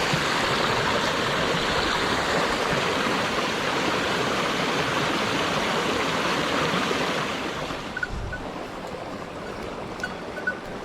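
Mountain stream rushing steadily. The water sound drops noticeably about seven to eight seconds in, and a few faint short chirps come after it.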